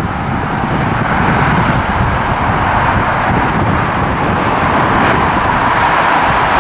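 Jet airliner engines running, with a rush that grows steadily louder. Wind buffets the microphone with a ragged low rumble.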